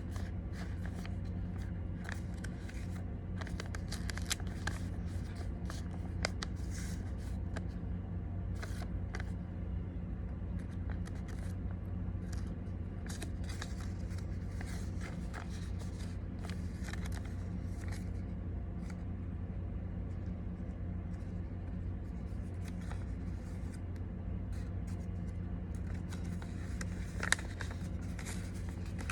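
Paper being folded and creased by hand: irregular short crinkles and soft scrapes, over a steady low hum.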